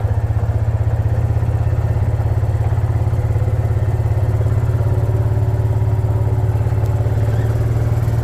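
A vehicle engine running steadily, a low even drone with a rapid regular pulse and no change in speed.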